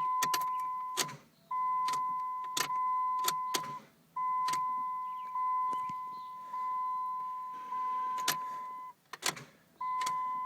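A 2000 Dodge Neon's steady electronic warning beep sounds in long stretches. It cuts off and starts again about three times, with sharp clicks as the ignition key is turned. The engine never cranks or fires: the intermittent no-crank, no-start fault.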